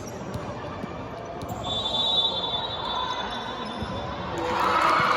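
Basketball game on an indoor court: a ball bouncing in repeated short knocks, a high thin squeak or whistle about two seconds in, and players' and spectators' voices growing louder near the end.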